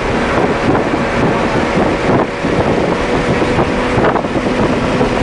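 A BMW M3's engine, with tyre and wind noise, heard from inside the cabin while lapping a racetrack: a loud, steady drone in which the engine note holds fairly even.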